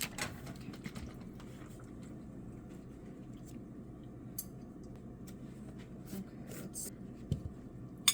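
A few faint, scattered clicks and taps of a pickle container being handled and opened.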